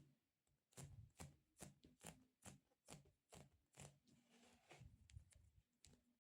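Soft sticky squishy toy being tapped with fingertips in a steady rhythm, about two to three light taps a second, each with a dull thud and a tacky click. About four seconds in comes a brief crackling, tacky peel.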